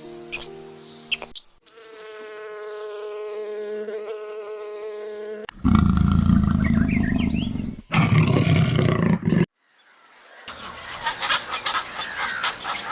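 A string of short animal sounds, one after another: a steady, high buzz like an insect's, then a loud, rough, low roar twice, then a quick run of scratchy clicks and calls.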